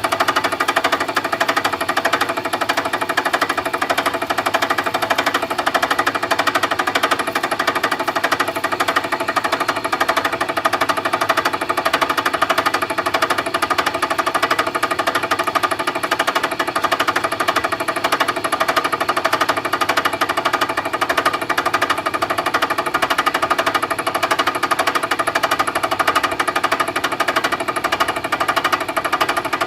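Milling machine running steadily under a cut, a continuous rapid rattling chatter over a steady whine.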